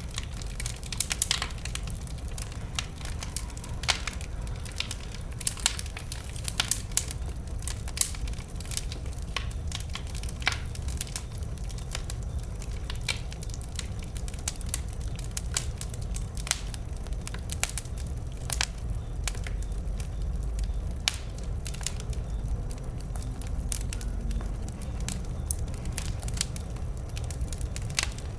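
Burning wood in a bonfire crackling and popping, with irregular sharp snaps of varying loudness over a steady low rumble.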